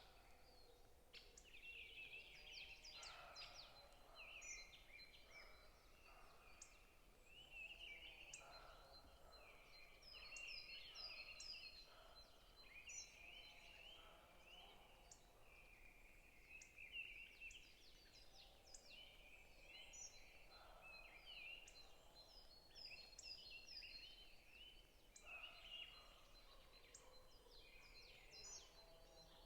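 Several forest songbirds chirping and trilling over one another in a faint, continuous chorus, with a thin steady high-pitched buzz running beneath.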